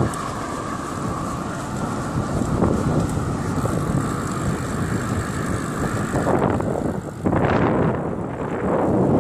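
Riding noise from a moving bicycle: wind buffeting the microphone over tyres rolling on a trail. A steady hum runs until about six seconds in, then the noise turns louder and gustier.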